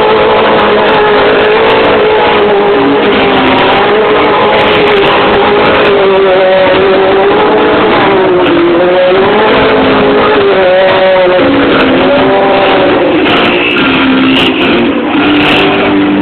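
Several motorcycle engines revving at once, loud and overlapping, their pitch rising and falling as the throttles are blipped and held.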